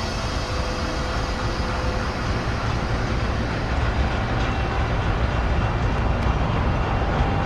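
Passenger train pulling away from a station: a steady low rumble with a few faint whining tones.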